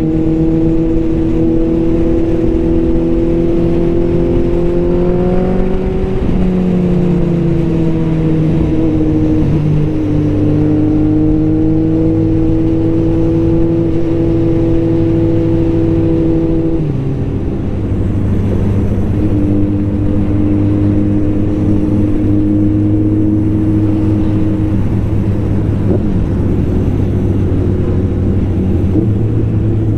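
Motorcycle engine running steadily at highway cruising speed, its pitch easing down briefly about six seconds in and changing again just past halfway, as the throttle or gear changes.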